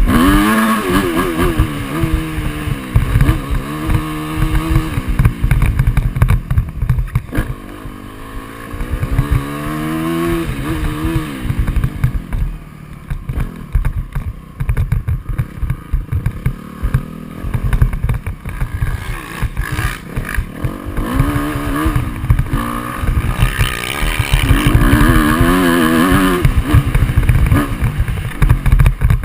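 Motocross dirt bike engine revving up and easing off again and again as it is ridden, its pitch rising and falling with the throttle. Heavy wind buffeting on the microphone throughout.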